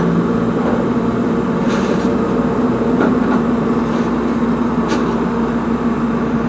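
A vehicle engine idling steadily, a constant low hum with a higher steady tone above it and a couple of faint ticks.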